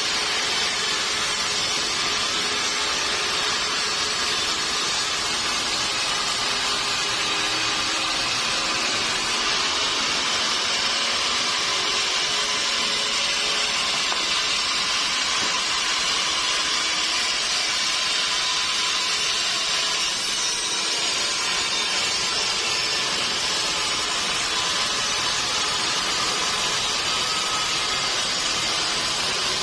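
Sawmill saw cutting through a mahogany log: a steady, high-pitched noise that runs on without a break.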